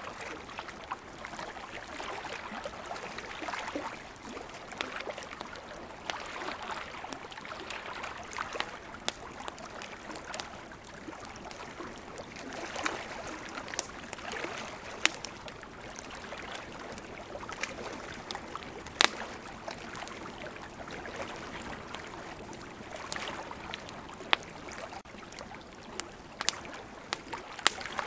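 Campfire crackling, with scattered sharp pops, over a steady, swelling wash of ocean waves.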